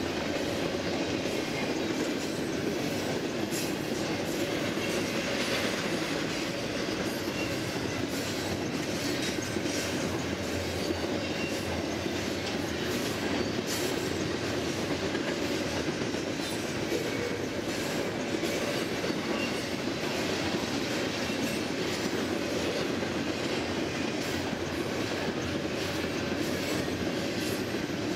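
BNSF double-stack intermodal freight train rolling past: a steady rumble of steel wheels on rail, with scattered clicks as the wheels cross rail joints.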